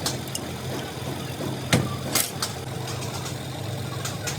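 An engine idling steadily with a low, even hum, and two sharp knocks a little under halfway through.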